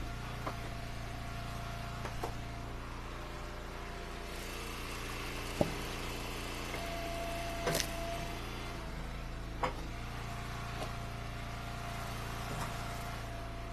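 Log splitter's engine running steadily, with a faint whine that comes and goes, and several sharp knocks of firewood being handled.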